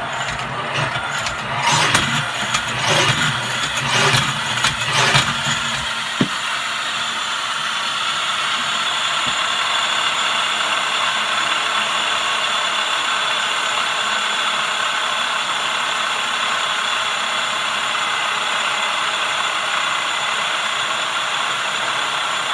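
Foot-powered Archimedean-screw treadle grinder: a few pushes on the treadle about once a second, each with a rattle. From about six seconds in the pushes stop and the grinding wheel spins on freely with a steady whir.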